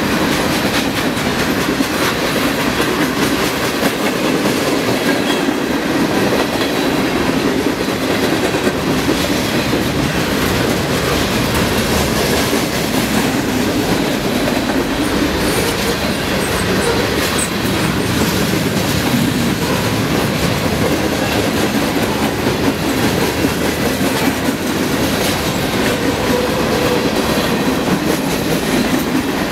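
Freight cars of a Union Pacific train (gondolas, covered hoppers and boxcars) rolling by close at hand: a loud, steady rumble and clatter of steel wheels on the rails.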